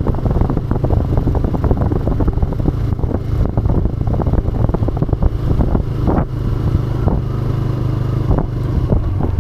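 TVS Raider 125's single-cylinder four-stroke engine running at steady, low revs on a rough off-road trail, with many short knocks and rattles from the bumps and some wind on the microphone.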